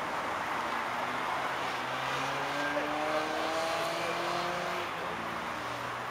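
A small car's engine under load on a slalom course, heard from a distance. Its pitch climbs steadily from about two seconds in and drops back shortly before the end, as the car accelerates and then lifts off.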